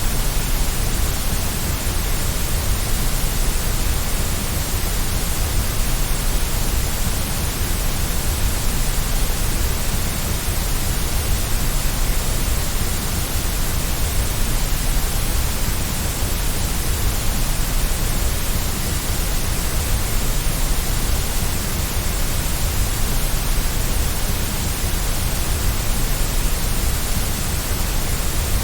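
Steady white noise: a continuous, unchanging hiss with a strong low rumble underneath.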